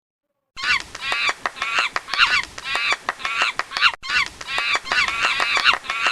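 Goose honking in a rapid run of short, pitched calls, about four a second, starting about half a second in.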